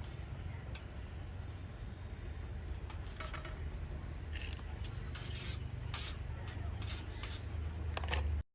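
A cricket chirping in short, evenly spaced high chirps, roughly one every half second, over a steady low rumble. Scattered crackling clicks come in from about halfway through.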